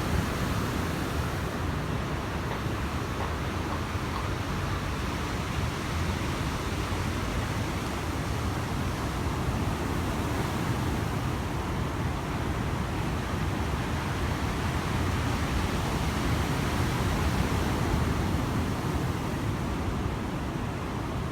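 Ocean waves breaking: a loud, steady wash of surf, swelling a little about three-quarters of the way in.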